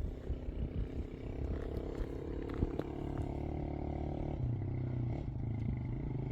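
An engine running steadily, its note changing about four seconds in, with a few scattered knocks early on.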